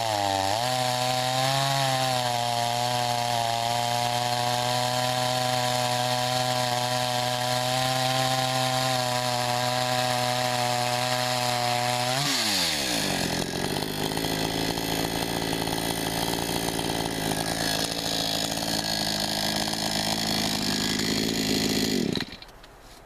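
Gas chainsaw cutting pecan wood. It runs at steady high revs, then about halfway through the pitch drops sharply and it runs lower and rougher. It cuts off suddenly about a second before the end.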